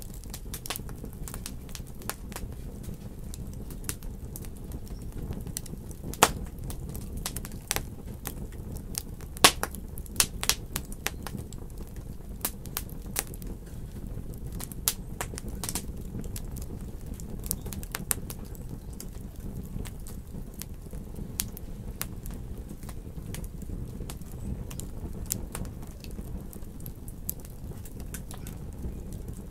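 Wood fire burning in a fireplace: irregular crackles and pops over a steady low rumble, with a few louder pops about six seconds in and again around nine to eleven seconds in.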